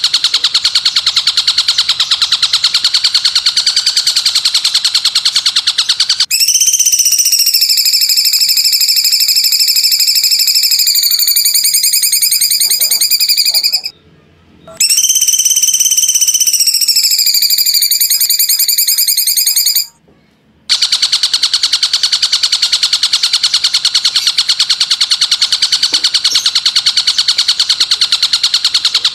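Recorded song played as a bird-tutoring track: a fast, high, buzzing trill, interrupted for about fourteen seconds by long, sliding whistled notes, with two brief silences before the trill returns.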